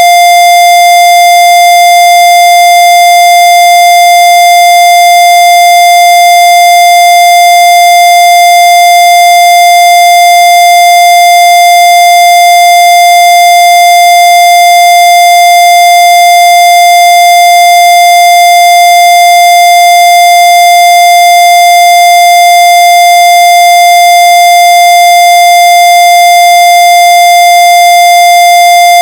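Loud, continuous electronic tone held at one steady pitch, harsh with overtones, never changing.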